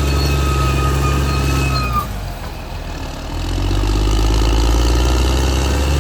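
Caterpillar D6R XL bulldozer's diesel engine running under load with a thin high whine. About two seconds in, the whine cuts off and the engine sound drops away briefly, then it builds back up and runs steadily.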